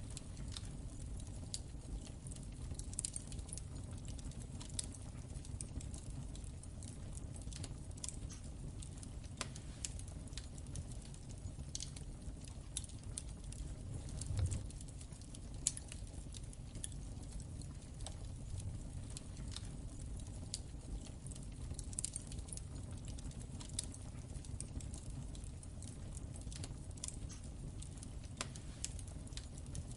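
Wood fire in a fireplace crackling: irregular sharp pops and snaps over a steady low rumble of the flames, with a brief low thump about halfway through.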